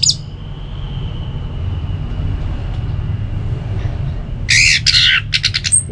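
Orange-headed thrush singing: one loud harsh phrase about four and a half seconds in, followed by a few quick sharp notes and a brief high whistle, over a steady low hum.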